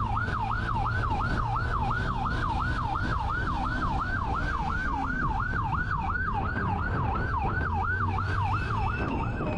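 Police siren in fast yelp mode, its pitch rising and falling about three times a second, over the low rumble of a moving vehicle.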